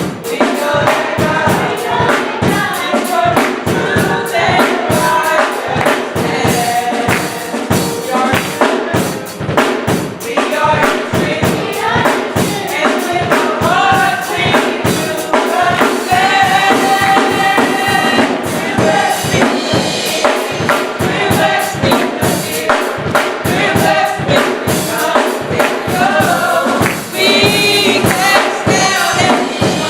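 Gospel song: a choir singing over a band with a steady drum beat.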